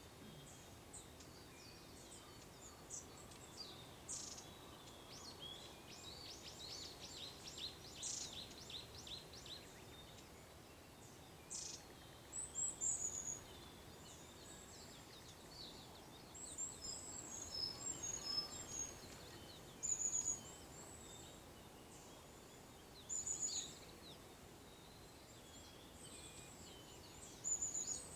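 Small wild songbirds calling and singing: many short, high-pitched chirps and a quick run of repeated notes, over a faint steady outdoor hiss.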